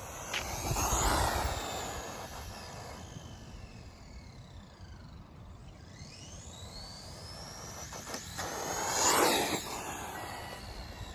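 A brushless RC truggy driving: its motor whine and tyre noise swell as it passes about a second in, the whine's pitch falls as it slows, then climbs again as it speeds up into a second pass near the end.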